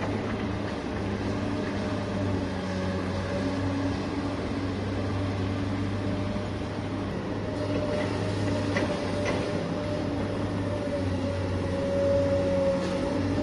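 Electric motors and gearing of a radio-controlled scale construction machine running steadily, a humming whine that swells and wavers, with a few light clicks about two-thirds of the way through.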